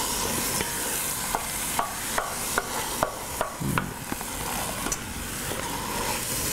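Diced tomatoes with green chili and ginger sizzling over high heat in a heavy pot, stirred with a wooden spoon as pureed spinach is spooned in. Spoons tap sharply against the pot and cup several times in a row in the middle.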